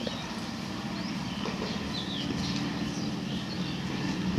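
Birds chirping now and then in short high notes over a steady low hum of outdoor background noise.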